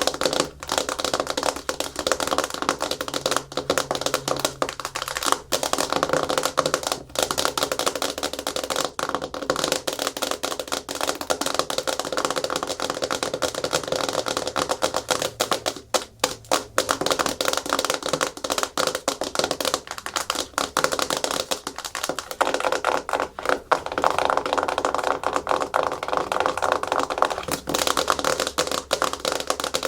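Natural fingernails tapping and scratching fast and hard on a hard plastic surface: a dense, rapid clatter of clicks, with brief pauses about half a second in and near the middle.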